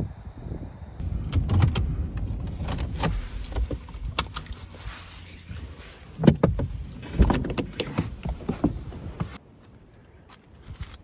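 Irregular clunks, clicks and rustling of gear being handled in and around a car, with a few louder knocks, as if doors and hatches are opened and shut.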